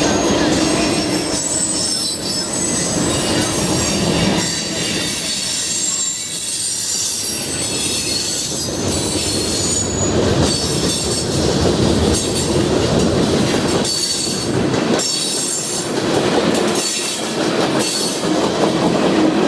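Freight train cars rolling past, their wheels squealing in thin high tones over the steady rumble and clatter of the train. In the second half, sharper clicks of wheels crossing rail joints come through.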